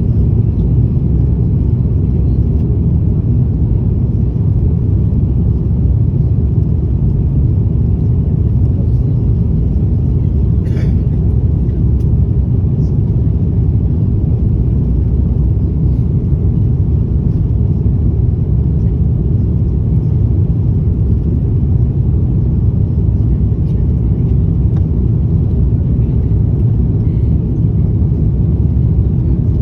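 Steady low rumble of airliner cabin noise in flight: jet engines and airflow over the fuselage heard from inside the cabin, even and unchanging.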